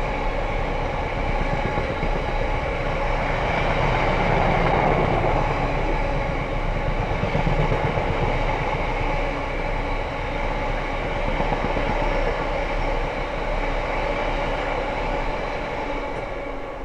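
Freightliner freight train led by Class 66 diesel locomotive 66223 rolling past close by. Its wagons make a long, steady rumble on the rails that fades away near the end.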